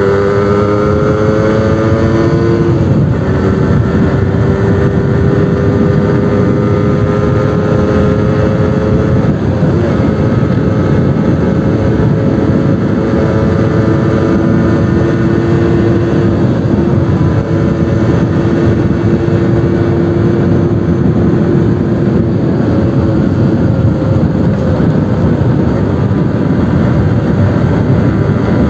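Suzuki RC100 two-stroke single-cylinder engine running through its new exhaust under load, its pitch climbing then dropping sharply about three seconds in as at a gear change, then rising slowly and holding fairly steady with small shifts.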